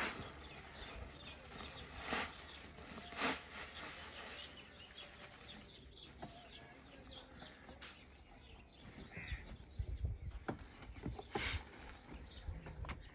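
Quiet outdoor background with scattered short chirps, likely birds, and a few sharp knocks.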